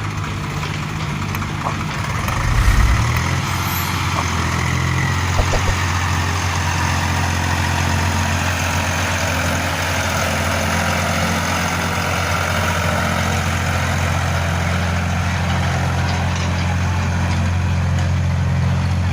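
Heavy diesel vehicle engine running steadily at a low, even pitch, with a brief louder low surge about three seconds in.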